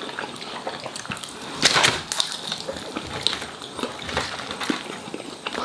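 Close-miked eating sounds: a man chewing and biting into a chicken wing, many small wet clicks and smacks, with one louder crunchy burst just under two seconds in.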